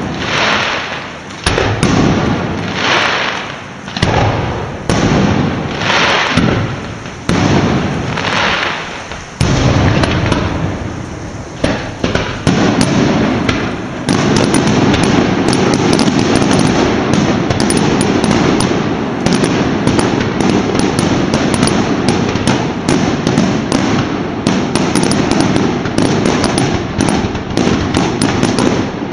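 Festival fireworks: loud single bangs about once a second, each dying away, then from about halfway through a continuous rapid crackle like a long string of firecrackers going off.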